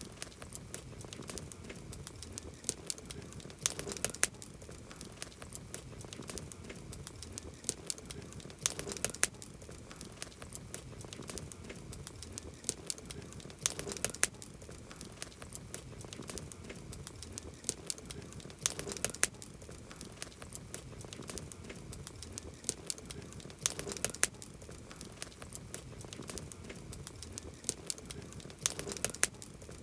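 Wood campfire crackling, with many sharp pops and snaps over a soft low rumble; louder clusters of snaps come about every five seconds.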